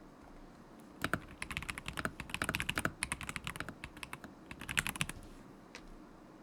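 Typing on a stock KZZI K75 Pro mechanical keyboard with Moment linear switches: a quick run of keystrokes starts about a second in and goes for about four seconds, then one more keystroke comes near the end.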